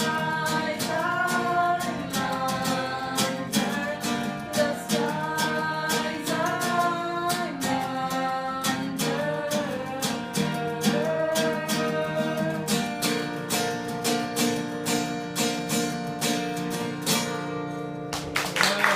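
A song performed with singing over fast acoustic guitar strumming. The singing drops out about two-thirds of the way through while the strumming carries on, then the strumming stops and applause begins right at the end.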